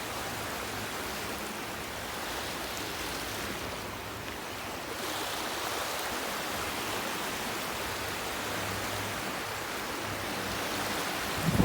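Steady wash of water and wind noise on open sea water, with a faint low hum at times.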